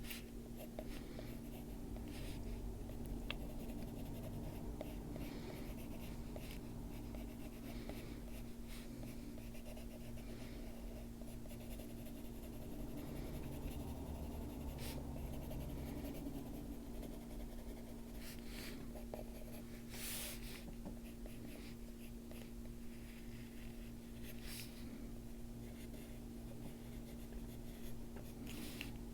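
Coloured pencil shading on paper: soft, irregular scratchy strokes of the lead over the page, over a steady low hum.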